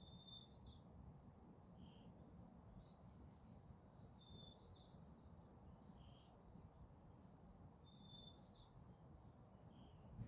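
A songbird faintly singing the same short phrase three times, about every four seconds: a held whistled note, then quick higher notes, ending on a lower note. A faint low rumble runs underneath.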